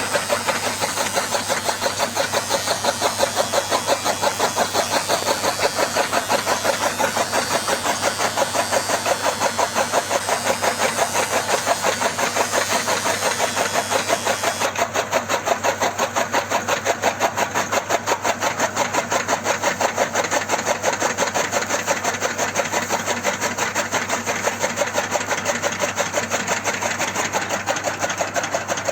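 Small electric motor of a homemade model chaff cutter running steadily, with a fast, even clatter of about four to five beats a second over a low hum.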